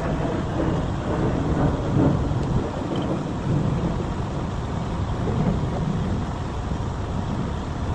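Heavy truck on the move: a low, uneven rumble of engine and road noise with no speech over it.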